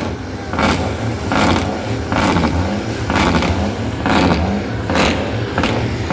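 Truck engine running with a steady low hum, with a short clattering noise about once a second.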